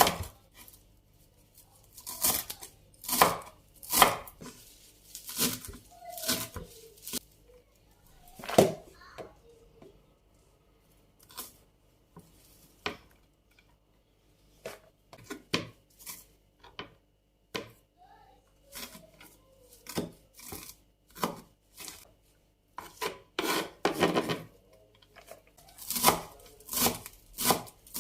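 Knife cutting on a cutting board, likely fresh greens being prepared for storage. The strokes come in uneven clusters, mixed with short scraping sounds, with a couple of pauses of a few seconds.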